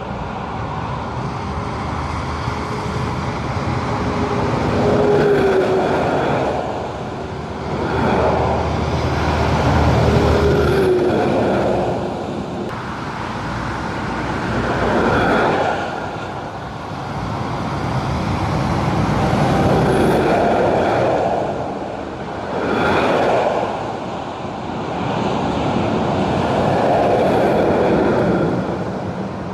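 Heavy trucks and other road traffic passing by one after another, about six passes, each swelling up and fading away with tyre and engine noise. A low engine drone runs under the first ten seconds or so.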